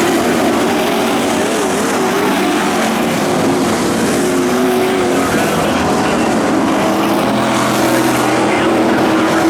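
Engines of dirt-track pro trucks running around the oval, a loud, steady drone of several engines whose pitches waver up and down as the trucks go by.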